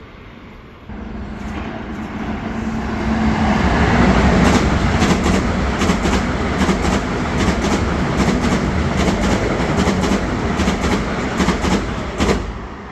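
Long Island Rail Road train passing close by at speed. Its rumble swells over the first few seconds, then the wheels click rapidly over the rail joints as the cars go by. The sound falls away sharply near the end as the last car passes.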